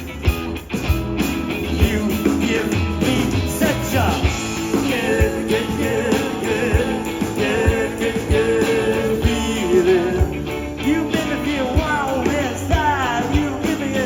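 Live blues-rock band playing an instrumental passage: bending lead lines over a steady drum beat and bass.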